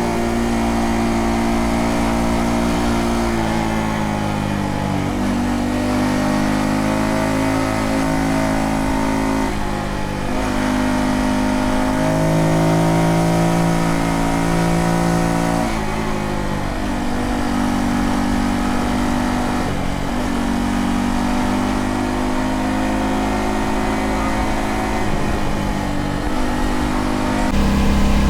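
Honda Dax 125's single-cylinder engine running on the road, its pitch climbing and then dropping back several times as it accelerates and shifts gears.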